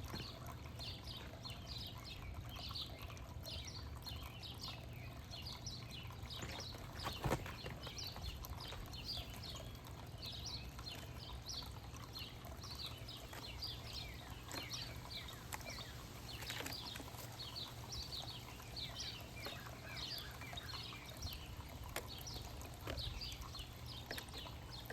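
Backyard birds chirping, many short calls in quick succession over a steady low rumble, with a single knock about seven seconds in.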